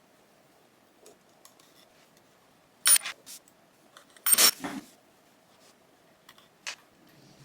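Small hard objects clicking and clinking as they are handled and set down: a sharp click about three seconds in, a short cluster of clinks a second and a half later, and one more click near the end.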